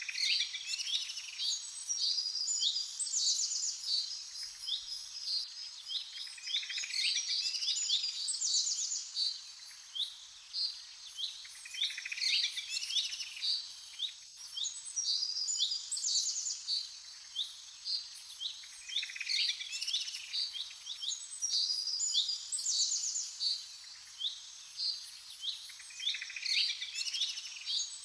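Small birds chirping and twittering in quick, high, repeated notes, with clusters of calls every few seconds.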